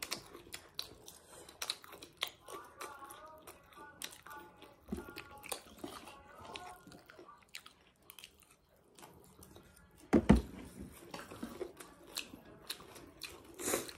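Close-up eating sounds: a person chewing and crunching food, with many small wet clicks of the mouth. A faint voice is heard in the middle, and a single louder knock comes about ten seconds in.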